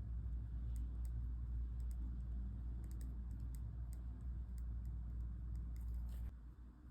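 Light, irregular ticks and taps of a pen and paper being worked at a desk, over a low steady rumble that drops away about six seconds in.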